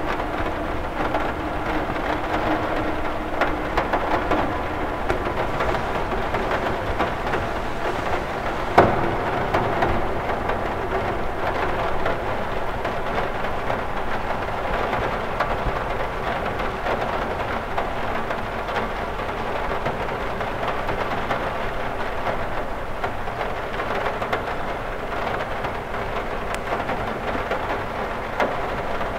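Steady rain on a cathedral window, a dense patter of drops striking the glass, with one sharper, louder tap about nine seconds in.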